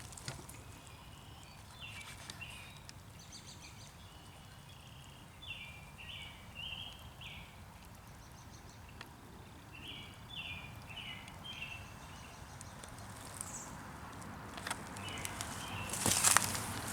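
Bird calling in short phrases of a few clipped notes, repeated every few seconds over faint background noise. Near the end, crunching footsteps start.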